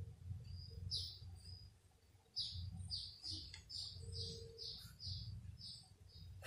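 Small bird chirping faintly: a few scattered chirps, then from about two seconds in a quick, even run of short high chirps, about three a second.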